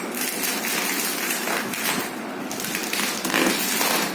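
Packaging being handled during a monitor unboxing: rustling and scraping in irregular bursts, with a few sharper crackles.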